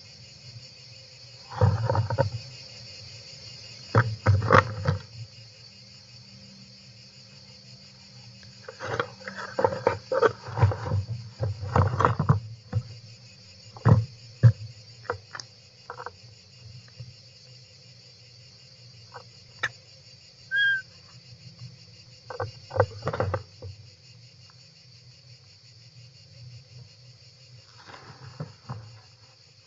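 Irregular bursts of scraping and rasping from European roller nestlings stirring inside a nest box, over a steady shrill chorus of insects. A single short whistled note comes about two-thirds of the way through.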